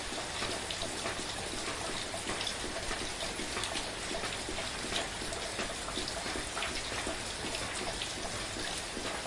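Steady, gentle rain falling, with a constant hiss and scattered individual drops ticking.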